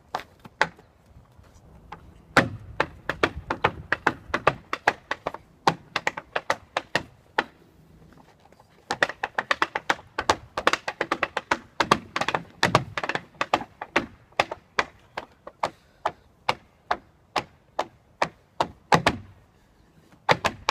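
Tap shoes' metal taps striking a hard floor in quick rhythmic runs of steps, broken by a few short pauses.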